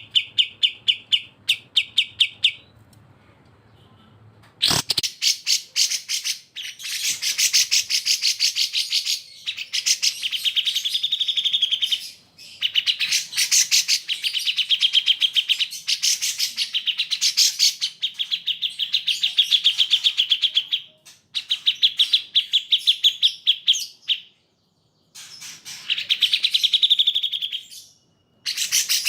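Recorded songbird song: long runs of rapid, sharp repeated notes, pitched high, in phrases several seconds long, broken by short pauses and a couple of abrupt cut-outs.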